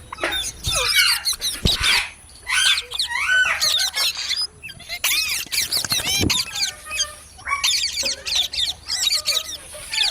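Parrots chirping and squawking in quick runs of short calls that sweep up and down in pitch.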